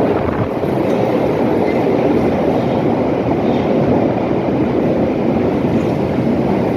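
London Underground 1972 Tube Stock train running into a platform: a loud, steady rumble of wheels on rail and traction equipment.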